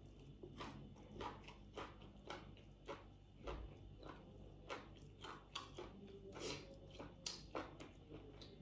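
A person chewing a mouthful of crisp deep-fried fish bone: a run of faint, irregular crunches, about three a second.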